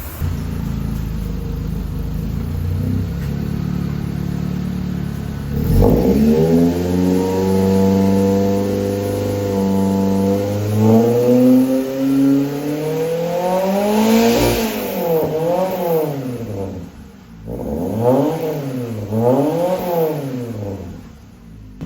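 Maruti Suzuki Zen engine running through a newly fitted full exhaust system. It holds a steady note, then is revved several times, the pitch rising and falling with each blip of the throttle.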